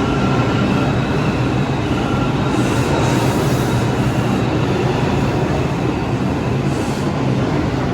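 New York City subway train running through the station at the platform: a loud, steady noise of wheels on rail and traction motors, with no break or change across the few seconds.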